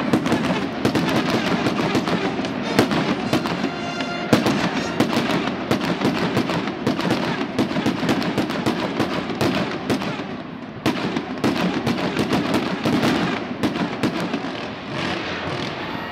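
Fireworks display: fountains and aerial shells crackling and popping in a rapid, continuous stream, with a short lull about ten seconds in.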